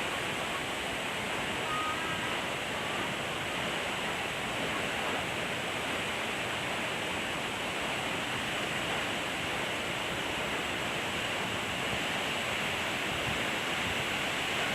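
Waterfall: a steady, unbroken rush of falling water, with a faint brief high note about two seconds in.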